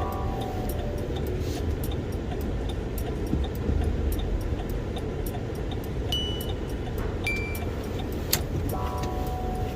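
Car driving slowly, heard from inside the cabin: a steady low rumble of engine and road noise, with faint scattered ticks and a few short, thin tones.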